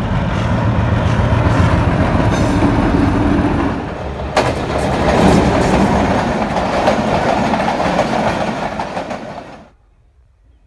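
A passenger train hauled by a Hitachi PHA-20 diesel-electric locomotive passing close by: a steady, loud rumble of the engine and the coaches' wheels clattering on the rails, with a sharp knock about halfway. The sound cuts off suddenly near the end.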